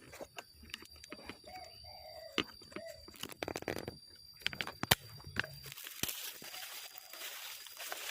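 Rustling and crunching of vegetation with scattered sharp clicks and snaps, the rustling growing steadier in the last couple of seconds. In the first few seconds, three short pitched calls from an animal.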